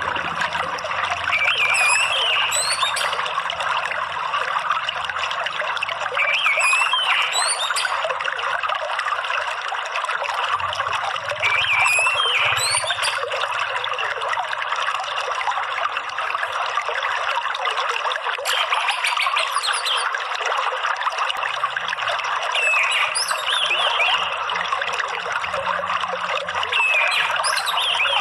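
Water trickling and splashing steadily, with an orange-headed thrush (anis merah) singing short gliding phrases over it every four to six seconds.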